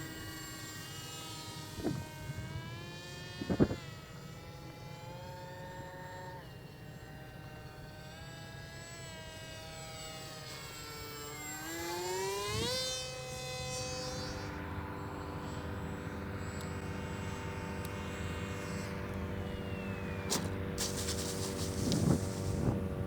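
Electric motor and propeller of an H-King RadJet 800 RC jet in flight, a whine that rises and falls in pitch with throttle and passes. Two sharp knocks, about 2 and 3.5 seconds in, are the loudest sounds.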